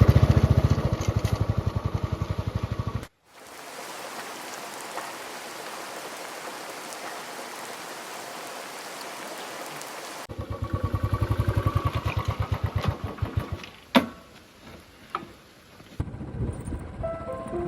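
Royal Enfield Classic 350's single-cylinder engine running with a fast, even pulsing beat, cut off abruptly by a steady rain-like hiss that lasts about seven seconds before the engine beat returns. A sharp click follows, and music starts near the end.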